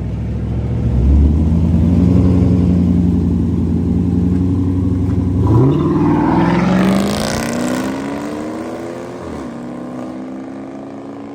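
Car engine running steadily, then revving up about halfway in as the car accelerates hard. Its pitch climbs for a few seconds, drops briefly near the end, and then holds higher.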